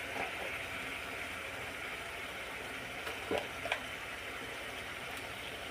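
Duck and potato curry sizzling steadily in a steel kadai as its spice paste fries down, with a few light clicks about three seconds in.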